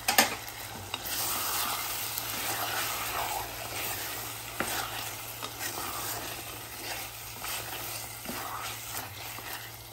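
Chicken pieces in curd and tomato masala frying on high heat in a pressure cooker, sizzling while a spatula stirs and scrapes them around the pan. A sharp knock comes just after the start.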